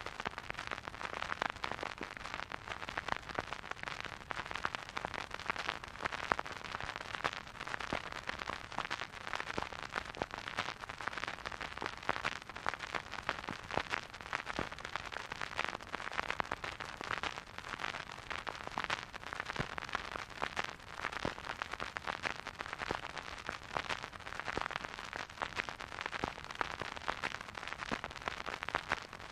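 Record player surface noise: a spinning vinyl record crackling and popping with a soft hiss, with no music.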